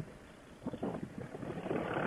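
Wind buffeting a motorcycle rider's helmet intercom microphone in uneven gusts, heard through a Bluetooth headset. It drops away briefly just after the start and builds again toward the end.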